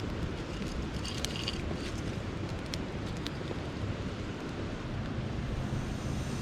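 Wind buffeting the microphone as a steady low rumble, with a few faint light clicks about one to three seconds in.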